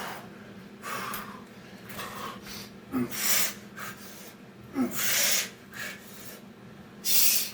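A man breathing hard from exertion during a burpee workout: sharp, hissing exhales, with three loud ones about two seconds apart in the second half.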